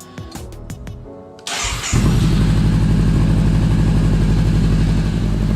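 Background music, then a Honda CB500X's parallel-twin engine is cranked on its starter about one and a half seconds in, catches half a second later and settles into a steady idle. It is a cold start to warm the oil before an oil change.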